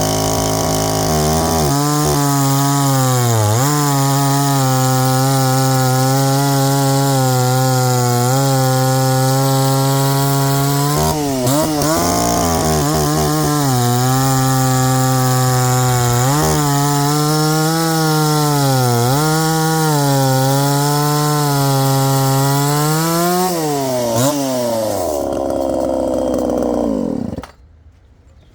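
Craftsman 3.7 two-stroke chainsaw running at full throttle through small ash logs. The engine note dips briefly several times as the chain takes the load, then winds down and cuts off near the end.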